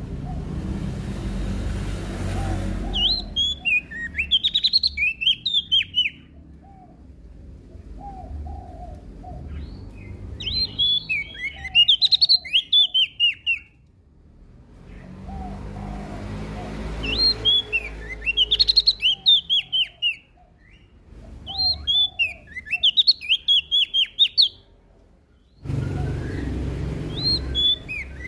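Prenjak daun (cikrak daun leaf warbler) singing in repeated bursts of rapid, high chattering notes, a new phrase every few seconds. Fainter, lower notes sound between phrases, with a low rumble in the background now and then.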